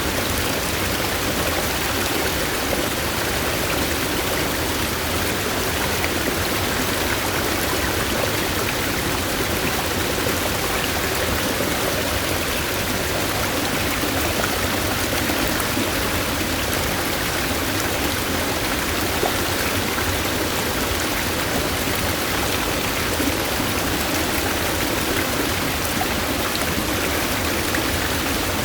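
Steady rush of a flowing stream, an even, unbroken wash of water noise with no change in level.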